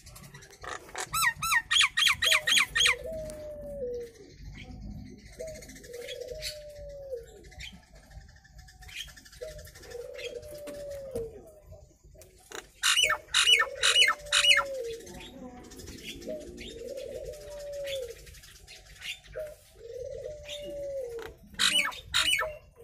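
Nias hill myna giving three bursts of loud, rapid, repeated calls: one near the start, one midway and one near the end. Under them a low, arching cooing note repeats every second or two.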